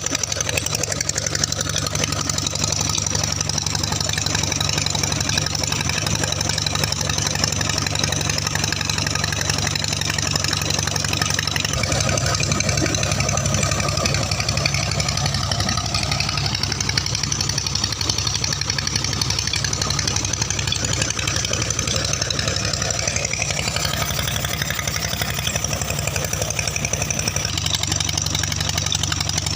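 Peter 20 HP diesel engine running steadily. Its sound grows fuller about twelve seconds in and settles back near the end.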